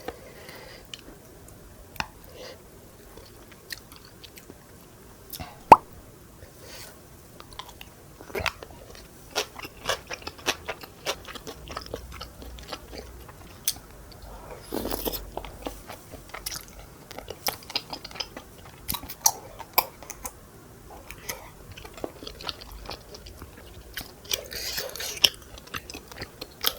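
Close-miked eating of tteokbokki: chewing and biting with many small wet clicks and snaps, one sharp loud click about six seconds in.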